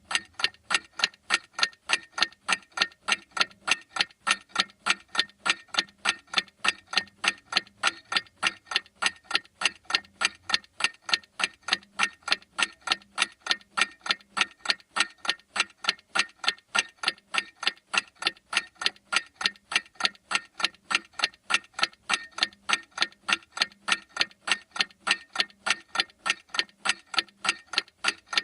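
Clock ticking steadily: sharp, evenly spaced ticks, several a second, with no change in pace or strength.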